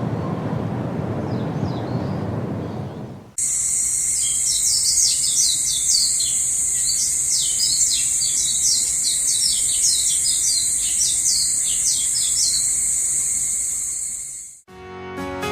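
Songbird singing a long run of quick chirps and trills over a steady, high insect drone, likely crickets. Before it, a low rushing noise fades out and cuts off about three seconds in; plucked guitar music starts near the end.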